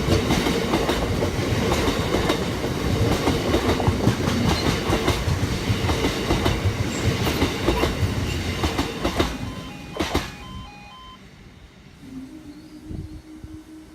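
A Class 170 diesel multiple unit passing over a level crossing, its wheels clicking and rattling over the rail joints. The sound fades away about ten seconds in. A steady low hum begins near the end as the crossing's half-barriers start to rise.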